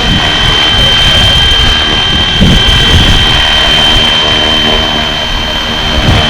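Flywing FW450 V3 450-size electric RC helicopter in flight: a steady high motor and rotor whine held throughout, over an uneven low rumble.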